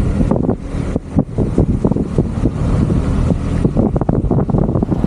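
A car on the move: steady low road and engine rumble with many short, irregular knocks and rattles.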